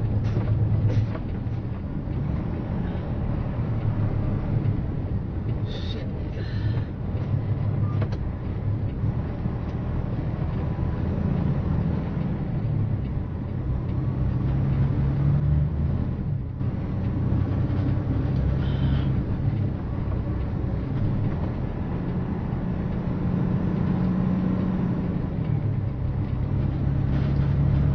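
Steady engine and road noise of a moving vehicle, the engine's pitch stepping up and down a few times as it drives.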